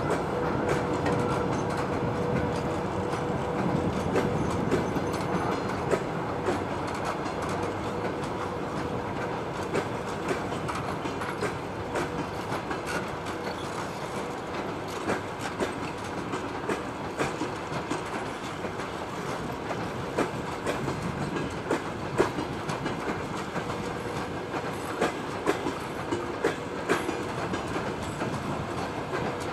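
A train rolling along the track, its wheels clicking irregularly over the rail joints. A steady hum fades out about halfway through.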